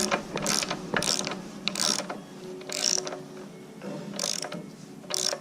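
Ratchet wrench clicking in short, irregular strokes, about seven of them, as hydraulic hose fittings on an excavator cylinder are tightened.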